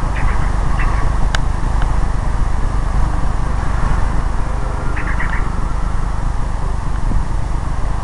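Steady loud rumbling background noise, with a few short bird chirps just after the start and a quick cluster of chirps about five seconds in.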